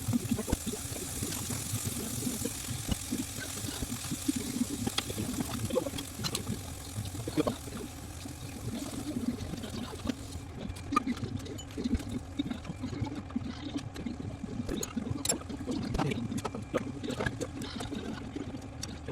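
Liquid sounds from cooking: a steady hiss for about the first ten seconds, which then stops, leaving scattered light clicks over a low, steady sound.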